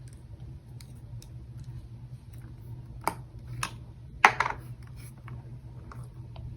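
Sticky slime being squished and stretched by hand, giving short clicks and crackling pops. The loudest pops come about three, three and a half and four seconds in, over a steady low hum.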